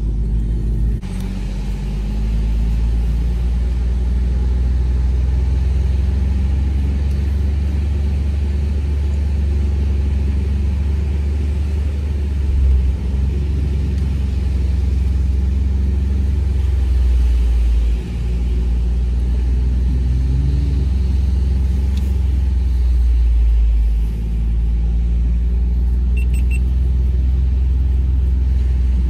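Ford Bronco being driven through loose beach sand: a steady, loud low engine and drivetrain rumble with the pitch shifting slightly as the throttle changes, and a few brief dips.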